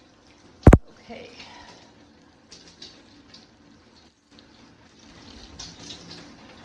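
Water spraying from a DIFEINI tub-and-shower set's shower head, a steady hiss, with one sharp loud knock less than a second in.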